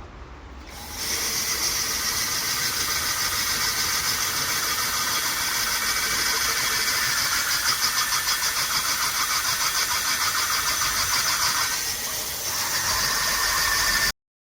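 Electric power tool working a metal bowl, a steady harsh whirring with a fast, even pulsing that comes in about a second in and eases briefly near the end.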